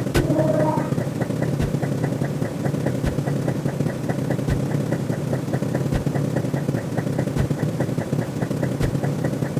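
Electronic counter sound effects: a rapid, even ticking and a sharp thump about every one and a half seconds over a steady eerie drone. A short ringing tone sounds just after the start.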